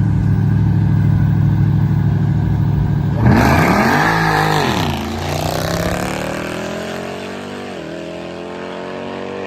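A performance car's engine rumbling steadily, then revving up and back down about three seconds in. It then accelerates with its pitch climbing, dipping briefly once near the end, while the sound grows a little quieter.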